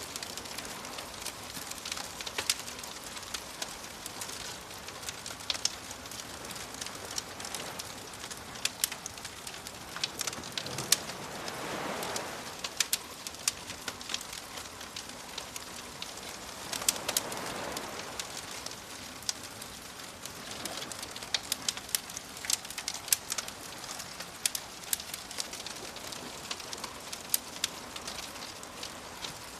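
Campfire crackling, with frequent sharp pops of burning wood over a soft hiss, mixed with gentle waves. Two waves wash in, swelling and fading about 11 and 17 seconds in.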